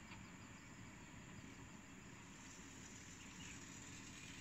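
Faint, distant low rumble of a Tze-Chiang express train crossing an elevated concrete viaduct, with faint insect chirping behind it.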